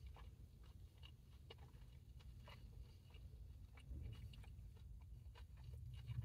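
Faint close-up chewing: soft, irregular wet mouth clicks several times a second as food is chewed.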